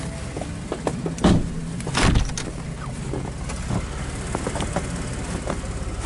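A motor vehicle's engine idling steadily with a low hum, with scattered small clicks and two heavy thumps, about one and two seconds in.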